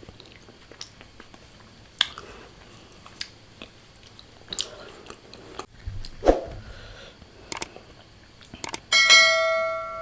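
Close-miked mouth sounds of eating: scattered soft chewing clicks and small crunches. About nine seconds in, a bright bell-like chime rings out and slowly fades.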